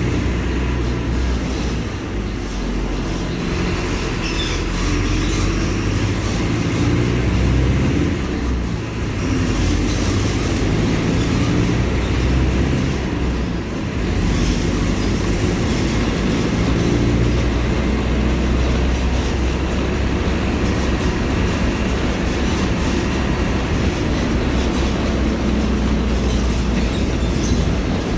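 Mercedes-Benz OF-1721 Bluetec 5 city bus's diesel engine running on the move, with rattling running noise. The engine note steps up and down several times, with brief dips in loudness.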